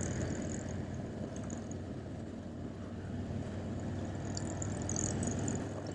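Motorcycle engine running steadily with an even low drone.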